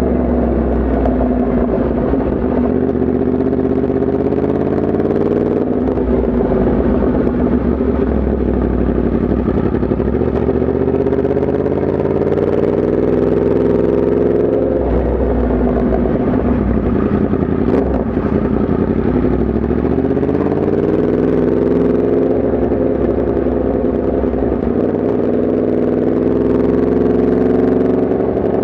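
Yamaha MT-10 SP's crossplane inline-four engine running under way. Its pitch rises and falls several times as the rider accelerates and eases off.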